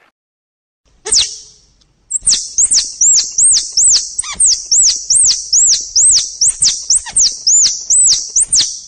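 A squirrel calling: one sharp high squeak about a second in, then a fast, even run of high squeaky calls, each arching down in pitch with a click, about three a second.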